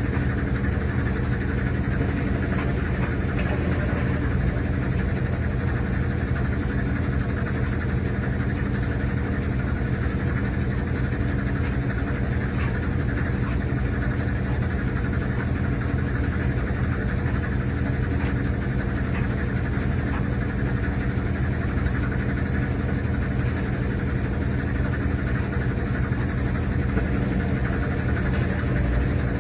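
RCA RPW302 portable washing machine running: a steady motor hum that holds even throughout, picked up with the camera resting on top of the machine.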